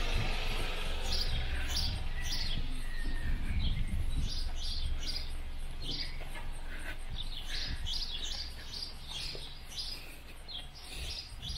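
Small songbirds chirping, a run of short, quick notes that fall in pitch, repeated many times, over a steady low rumble.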